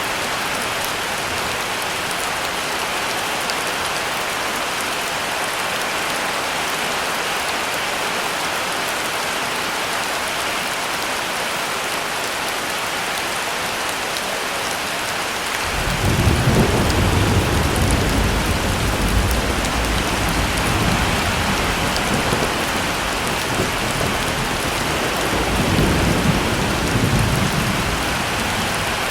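Heavy rain falling steadily. About halfway through, a long low roll of thunder begins and rumbles for about twelve seconds, swelling again before it fades near the end.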